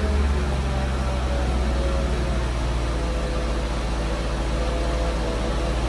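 1994 Mercedes-Benz S420's 4.2-litre V8 idling steadily just after a cold start.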